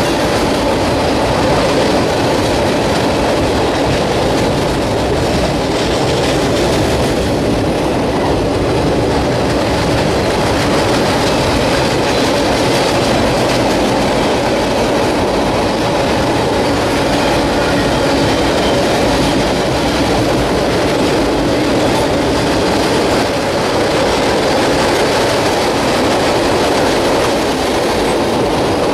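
Freight cars (tank cars, boxcars and covered hoppers) rolling across a steel trestle bridge: a steady, loud rumble and rattle of wheels on rail that goes on without a break.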